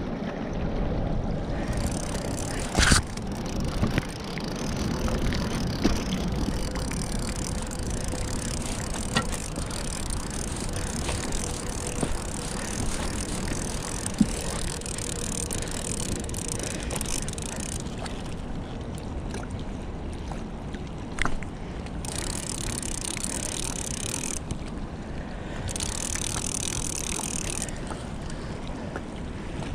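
Fishing reel being cranked steadily while fighting a hooked blue catfish, a continuous grinding rattle under wind on the microphone, with a couple of sharp clicks.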